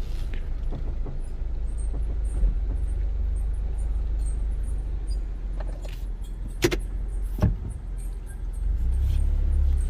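Honda Civic four-cylinder engine idling steadily with its rebuilt automatic transmission just shifted into reverse, the gear in which the clattering goes away. Two sharp clicks come about two-thirds of the way through.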